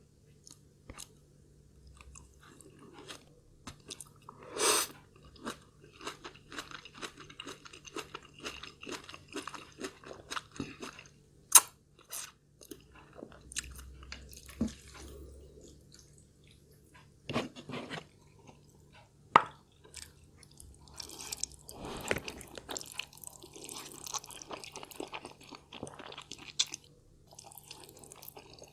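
Close-miked eating sounds: a person chewing and crunching food, with sharp wet clicks and smacks at uneven intervals and a few louder ones.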